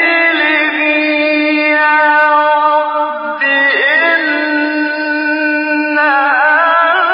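A male Quran reciter's voice holding one long drawn-out note in melodic tajwid recitation. About halfway through it dips and turns to a new pitch, and near the end it wavers in an ornament.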